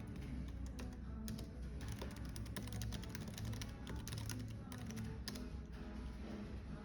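Fast, irregular typing on a computer keyboard, with soft background music.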